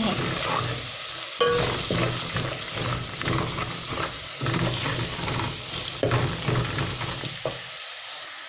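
Onions, whole pilau spices, garlic and ginger sizzling in hot oil in a metal pot, with a wooden spoon stirring and scraping the pot with irregular strokes and a few knocks. The stirring stops about a second before the end, leaving only a softer sizzle.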